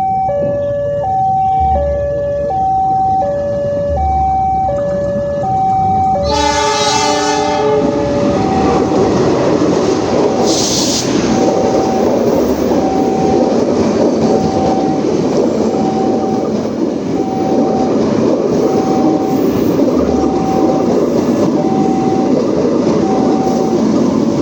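A railway crossing alarm alternating between two tones. About six seconds in, the CC 206 locomotive's chime horn sounds one blast of about a second and a half. Then the train runs past with a steady rumble and clatter while the crossing alarm keeps ringing.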